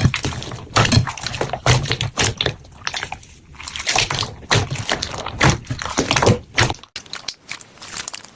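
Slime being squished and worked by hand: a run of irregular wet squelches, several a second. About seven seconds in it switches abruptly to a quieter, crisper crackling.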